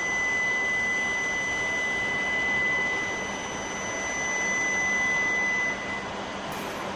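Steady high-pitched electronic warning tone on a Shinkansen platform as the train departs. It holds one pitch over a steady background hiss and stops about six seconds in.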